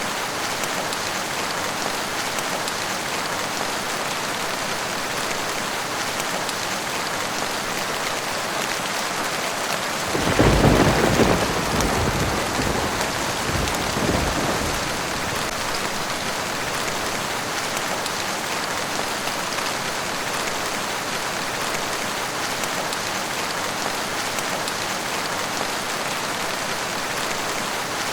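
Steady rainfall, with a clap of thunder about ten seconds in that rumbles on and fades over the next five seconds or so.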